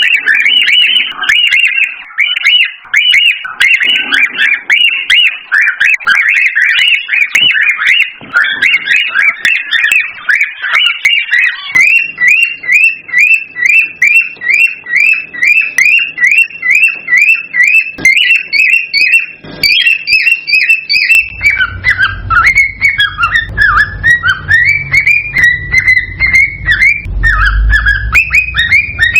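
Cockatiel whistling and chirping without pause: dense overlapping chirps at first, then a long, even run of short repeated whistled notes at about three a second, turning into a more varied warble in the last third. A low rumble sits under the final several seconds.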